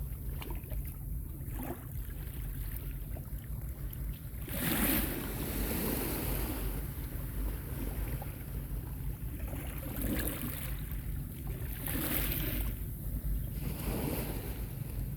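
Small sea waves washing onto a beach, four washes of surf, the loudest about five seconds in, over a steady low rumble of wind on the microphone.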